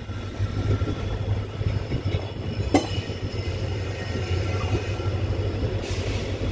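Passenger train coach running on the rails, heard from aboard at the open door as the train moves out of the station: a steady low rumble that swells over the first second, with one sharp click almost three seconds in and a brief high hiss near the end.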